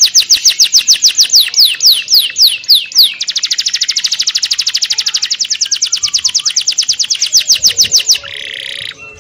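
A bird giving a long run of high, rapid chirps, about ten a second, each note falling in pitch. About two seconds in the notes slow and lengthen, then they speed up again until they stop near the end, where a short rasping burst follows.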